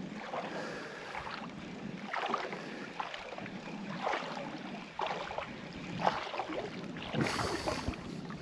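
Creek water sloshing and splashing with each stride of someone wading through a shallow creek, about one splash a second.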